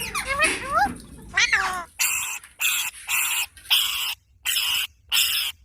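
Parrot calling: a few quick rising, gliding chirps, then a steady series of six harsh screeches, roughly two every second.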